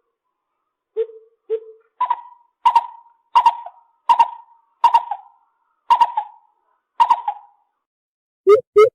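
Lesser coucal calling: two low hollow notes, then a series of about seven louder, higher notes spaced about two-thirds of a second apart. After a short pause, a fast run of low notes begins near the end.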